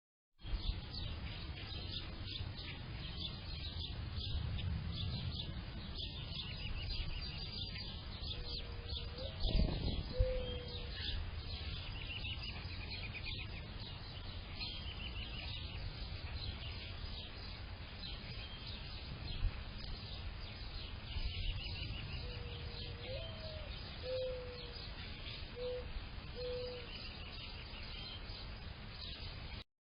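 Mourning dove cooing twice, a low mournful phrase that swells up on its second note and then falls to several softer coos, over steady high chirping and trilling of small songbirds. A brief low thump comes about ten seconds in.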